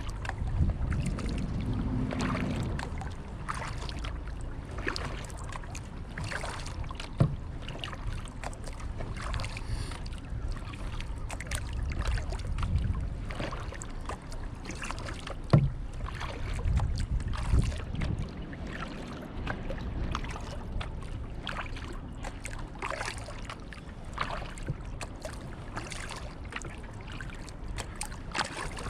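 Kayak paddle strokes dipping and splashing in the water, over a low rumble of wind on the microphone, with two sharp knocks, one about a third of the way in and one around the middle.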